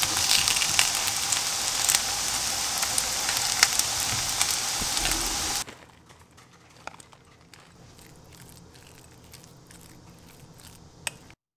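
Zucchini slices sizzling and crackling in hot oil in a frying pan. About six seconds in the sizzle cuts off suddenly, leaving faint clicks and scrapes of a utensil mixing mashed sweet pumpkin in a glass bowl, with one sharper clink near the end.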